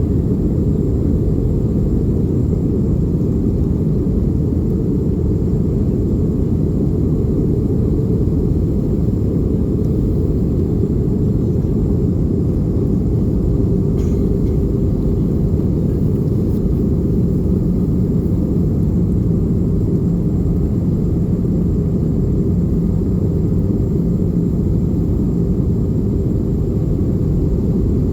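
Airbus A320 cabin noise: a loud, steady low rush of engine and airflow heard from inside the cabin.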